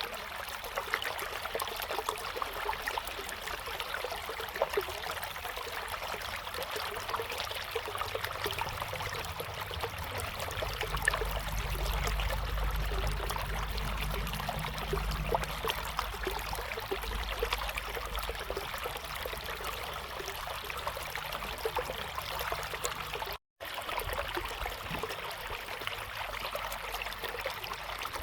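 River water flowing steadily over stones, with a constant rushing babble flecked with small splashes. A low rumble swells in the middle, and the sound cuts out for a split second about three quarters of the way through.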